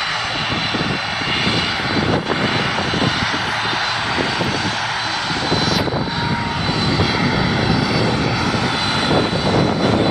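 Jet airliner engines running: a steady rumble with a constant high whine over it, growing a little louder in the second half.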